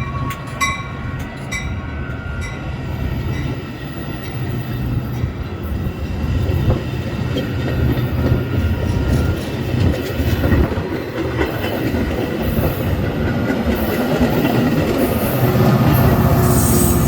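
A train rolling past, with a steady low rumble and the clatter of wheels over rail joints, growing louder near the end. A bell rings in quick strikes that stop about a second in.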